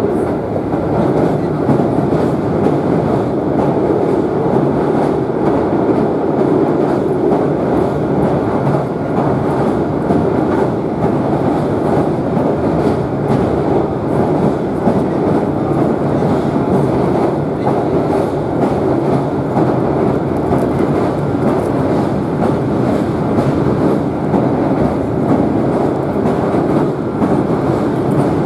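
A Kintetsu electric train running at speed across a steel truss river bridge, heard from inside the passenger car: a steady, loud rumble of wheels on rail.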